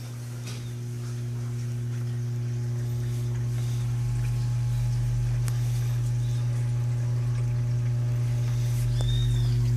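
Consul 6 kg Jasmim washing machine running after its repair, giving a steady low electric hum that grows louder over the first few seconds and then holds. A short high chirp sounds near the end.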